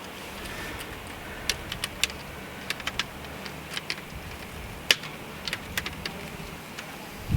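Irregular light clicks and small metallic clinks of garden railway track pieces and fittings being handled and fitted together, the sharpest about five seconds in.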